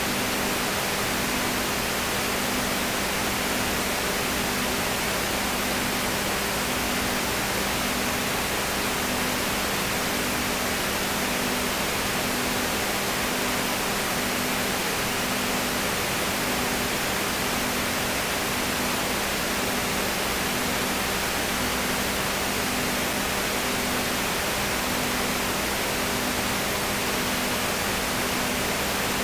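Steady hiss with a faint low hum that pulses about once a second.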